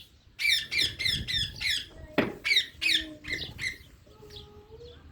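Parrots giving a quick run of short, high squeaky calls, about three a second, then quieter whistled notes near the end.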